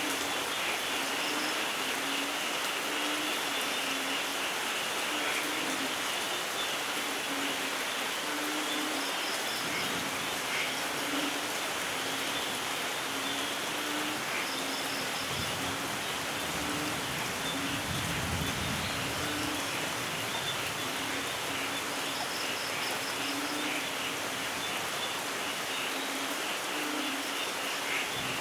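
Steady rainfall in a rainforest, with frogs calling in short repeated low notes and insects and birds chirping higher up. A low rumble of distant thunder swells and fades about halfway through.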